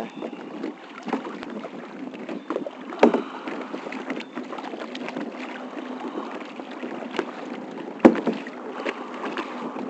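Kayak being paddled through choppy water: steady splashing and lapping of water against the hull, with a few sharp knocks from the paddles, the loudest about three and eight seconds in.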